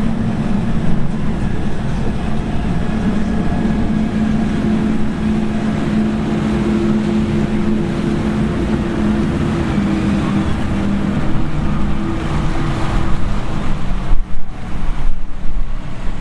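A yacht's engines droning steadily as the boat runs through an inlet, the hum fading about thirteen seconds in. Near the end, wind gusts buffet the microphone.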